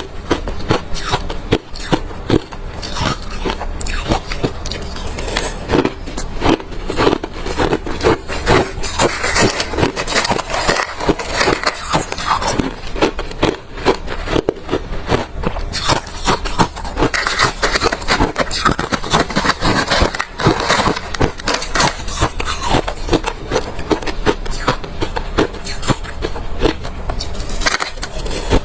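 Close-miked chewing of hard refrozen crushed ice: dense, continuous crunching and cracking with no pauses.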